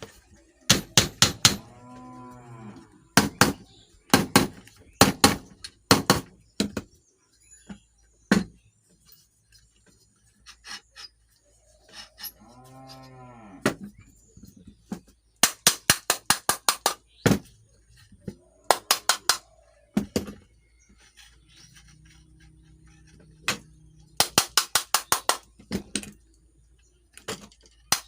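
Bursts of rapid, sharp taps from work on a ceiling fan being reassembled, several strikes a second in each burst. Between them a cow moos twice, about 2 s and 13 s in, each call rising and falling in pitch.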